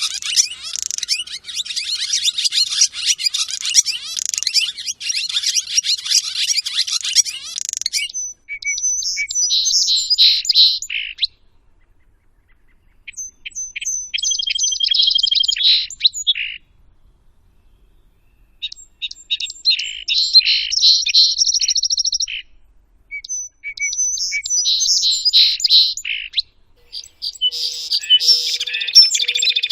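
Bird song. The first eight seconds are a dense, continuous high chatter. After that comes a series of separate high-pitched song phrases, each two to three seconds long, with short pauses between them.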